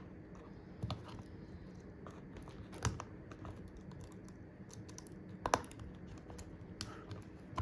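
Scattered light clicks and taps from handling a phone and its small parts during repair, with a few sharper taps about one, three and five and a half seconds in.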